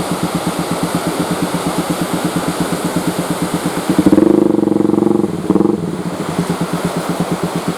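Engine of a mayang fishing boat running with a steady, fast, even thumping. About four seconds in, a louder steady tone sounds over it twice: a long one, then a short one.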